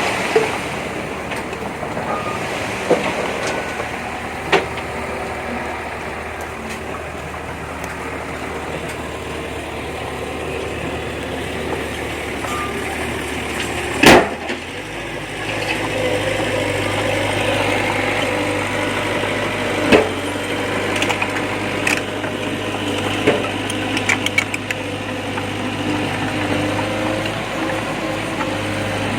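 Diesel engine of heavy earthmoving machinery running steadily. Its note steps up about halfway through as it revs higher, with scattered knocks and clanks. The loudest is a sharp bang just before the change in engine note.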